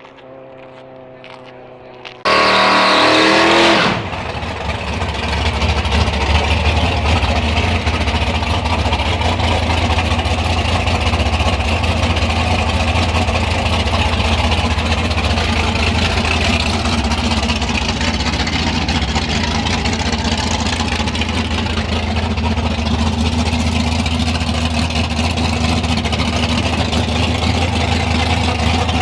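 A car engine at a drag strip revving with a rising pitch for about two seconds, then a loud, steady, deep idle to the end.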